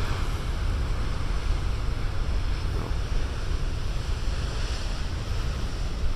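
Big ocean waves breaking and surging in a steady wash of surf, with wind buffeting the microphone and adding a heavy low rumble.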